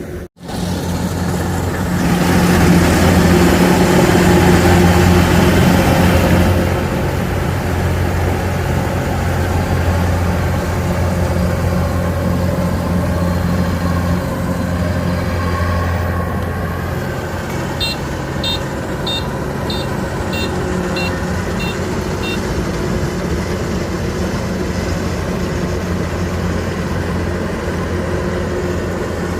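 Rice combine harvester running steadily, its engine hum and threshing louder for a few seconds near the start. A run of about ten short, evenly spaced high beeps sounds about two-thirds of the way through.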